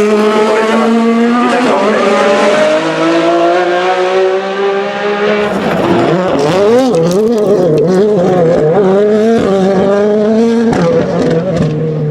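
Race car engines running hard, their pitch climbing through upshifts in the first seconds. From about halfway in, several engines overlap with pitch wavering up and down.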